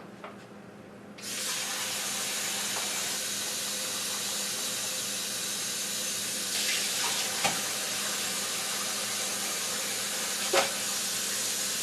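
Kitchen sink tap turned on about a second in and running steadily. A few short knocks in the sink sound over the running water.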